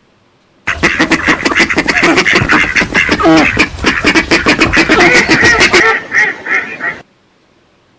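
Ducks quacking in a fast, continuous run of calls. It starts about a second in and cuts off abruptly near the end.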